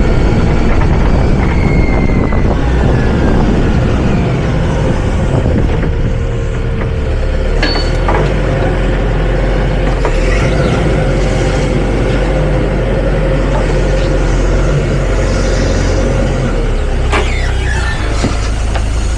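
Hyster H100FT forklift running steadily, a loud low engine drone with a thin steady whine through the middle. A couple of sharp knocks stand out, one about a third of the way in and one near the end.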